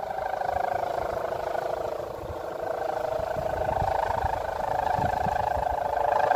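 Kite hummer (sendaren) on a large flying kite droning in the wind, a steady buzzing tone that wavers slightly in pitch, with wind rumbling on the microphone.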